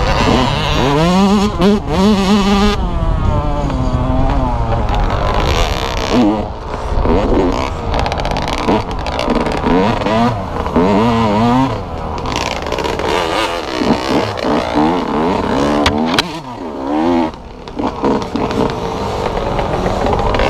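Dirt bike engine revving up and down as the bike is ridden, its pitch rising and falling again and again through the gears.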